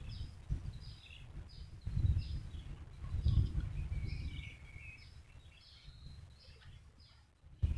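A bird calling over and over in short, high notes, repeated about every half second, over a patchy low rumbling noise.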